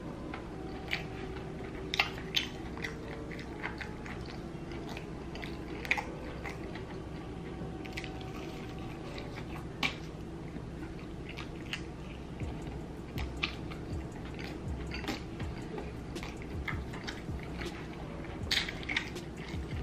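A person chewing and biting into crunchy fried chicken coated in spicy sauce, close to the microphone: irregular crunches and mouth sounds, the sharpest bites about two seconds in and near the end.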